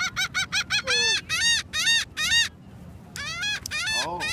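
Seagulls calling: a fast run of short yelping notes, then several longer drawn-out calls, with more than one gull calling at once near the end.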